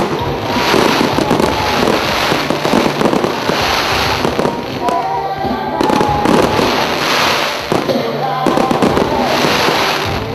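Display fireworks firing in quick succession: aerial shells and multi-shot cakes bang, burst and crackle continuously, with no break.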